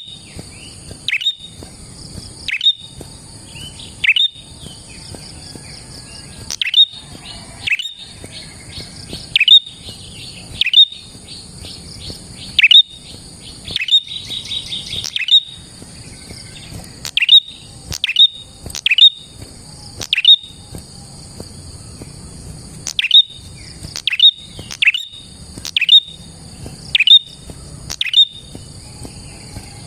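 Prenjak (prinia) calling: loud, sharp, downward-sweeping chirps repeated irregularly, with a fast rattling trill run in the middle. A steady high-pitched buzz, like insects, runs underneath.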